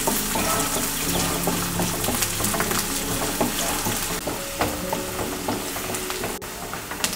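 Chopped onions and curry leaves sizzling in hot oil in a nonstick pan, stirred with a wooden spatula that scrapes and taps the pan in short clicks. Soft background music with held notes plays underneath.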